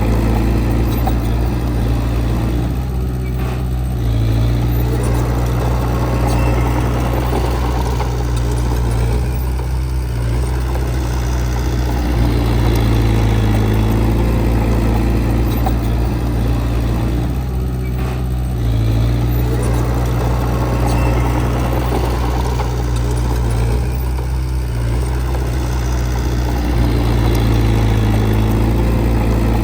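Heavy diesel engine of an earthmoving machine running steadily, its load rising and easing every several seconds as it works.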